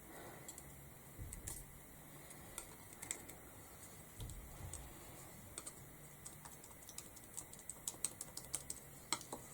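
Faint, irregular light clicks and taps from handling paint at a craft table, with a couple of soft low thuds early on and the clicks coming more often in the last few seconds.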